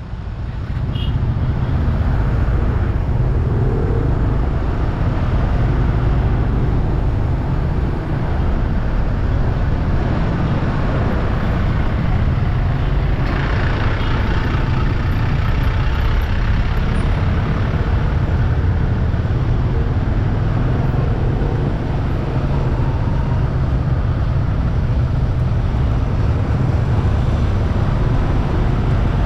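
Steady low rumble of wind and road noise while riding through street traffic, with other vehicles running nearby.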